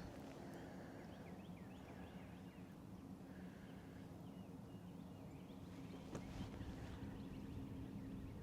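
Faint birds chirping over a low steady hum, with a single soft knock about six seconds in.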